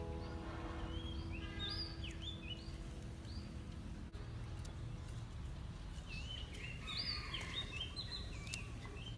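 Songbird singing two quick warbling, chirping phrases, one about a second in and another about six seconds in, over a steady low outdoor rumble.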